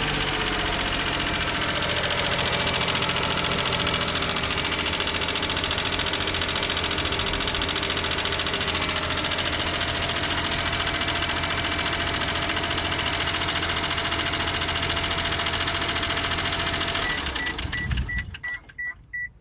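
Daihatsu Hijet S320V's EF-DET three-cylinder engine idling with a fast, even ticking, the abnormal noise that the owner means to cure with a valve lash adjustment. Near the end the engine shuts off and a warning chime beeps about three times a second.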